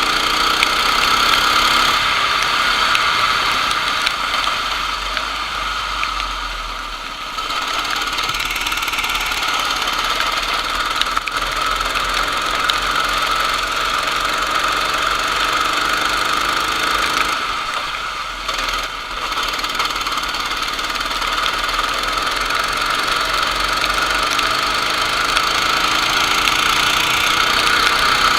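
Racing kart engine running at speed, its pitch rising and falling, with two brief drops in level about a quarter and two-thirds of the way through as the throttle comes off.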